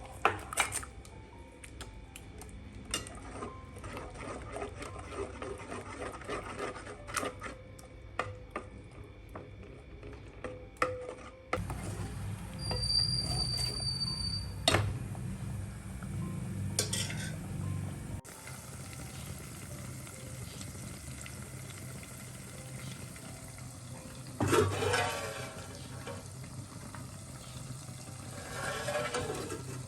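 Kitchen work: utensils clinking and scraping against pots and dishes, with stirring, through several edited clips. A steady high beep sounds for about two seconds around the middle, over a low hum.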